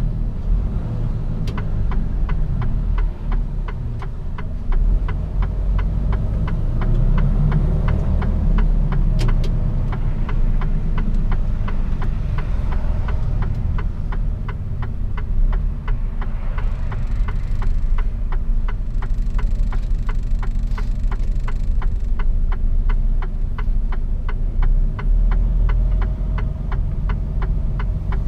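Mercedes-Benz Actros truck heard from inside the cab: a steady low engine and road rumble, with a regular ticking of about two clicks a second from the turn indicator.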